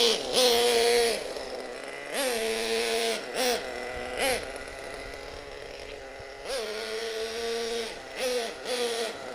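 Single nitro engine of a Hot Bodies Lightning GTX2 RC monster truck, tuned very rich, revving in short throttle bursts. Its pitch sweeps up and settles again several times, with a rushing hiss during the loudest bursts near the start.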